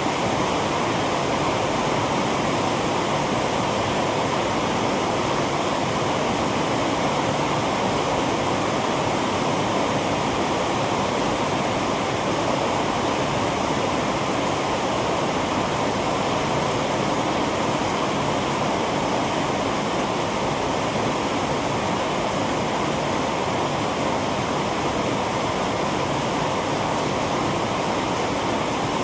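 Heavy rain falling, a dense steady hiss that does not let up.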